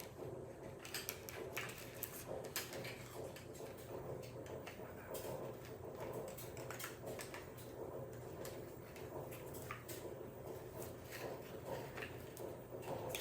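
Scattered small clicks and knocks of kit parts being handled and fitted together, over a steady low hum.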